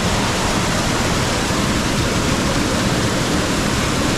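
Rain-swollen creek and waterfall gushing, a loud, steady rush of water with no breaks.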